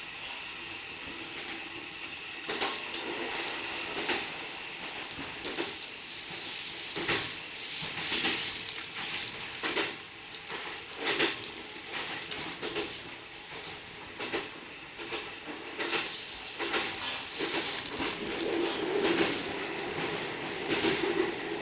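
Electric commuter train running on the rails, with a steady rushing hiss and repeated wheel clacks over rail joints; the rushing grows louder about five seconds in.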